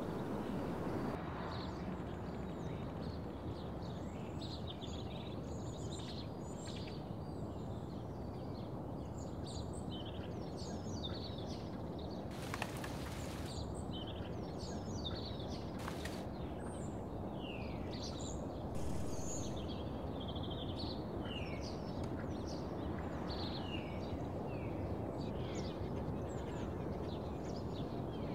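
Many small birds chirping and calling in quick short notes over a steady low background rumble.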